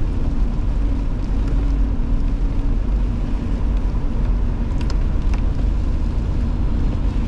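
Steady low rumble of a truck driving on a wet, salted road, engine and tyre noise heard from inside the cab, with a few faint clicks about five seconds in.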